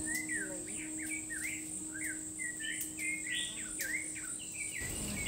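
Wild birds chirping in a rapid, busy series of short rising and falling notes, over a steady high-pitched hiss. A low rushing noise comes in near the end.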